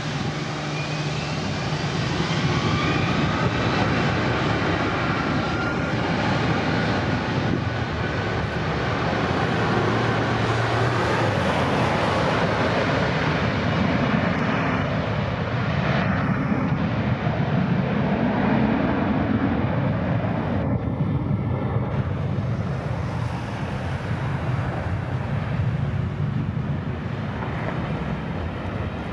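Boeing 757-200 jet engines at takeoff power, a loud steady roar that swells about two seconds in, with a thin whine falling slowly in pitch over the first several seconds.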